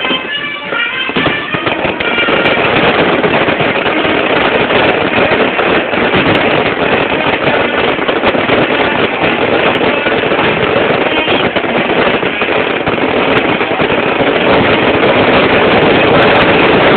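Brass band music fading out in the first couple of seconds as a dense, continuous crackling from a 'rain of lights' fireworks display takes over and carries on loudly.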